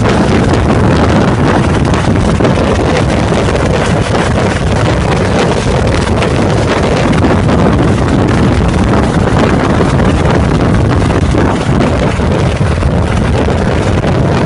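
Loud, steady helicopter noise, engine and rotor running without let-up, with wind buffeting the microphone.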